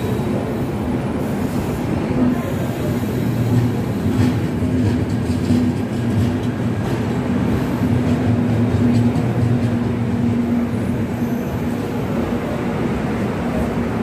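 Express train's passenger coaches rolling slowly past as it pulls into the station: a steady noise of wheels on the rails with a low hum.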